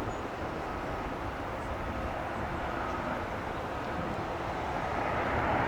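Jet airliner engines: a steady rumble and hiss that grows louder toward the end as the plane draws nearer.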